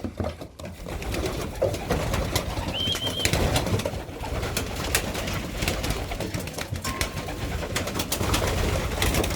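Racing pigeons cooing in a loft, a steady low murmur, with scattered clicks and knocks throughout and a brief high chirp about three seconds in.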